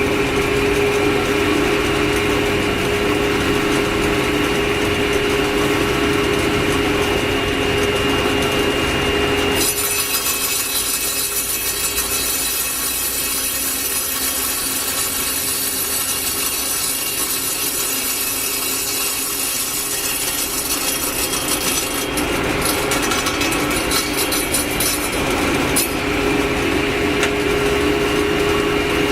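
Power saw with a diamond blade running free with a steady whine. About ten seconds in, the blade bites into a fire brick and a harsh, hissing grind takes over for roughly twelve seconds, then fades as the cut finishes, leaving the free-running whine near the end.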